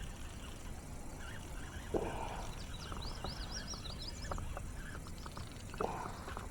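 A small bird chirping: a quick series of short high notes about three seconds in, with a few more scattered chirps later, over steady low background noise.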